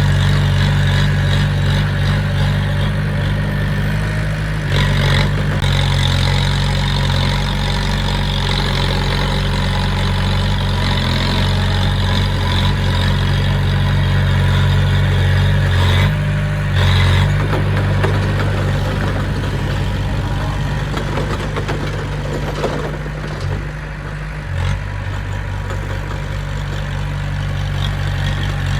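Diesel engine of heavy earthmoving equipment running steadily, its engine note shifting briefly a few times.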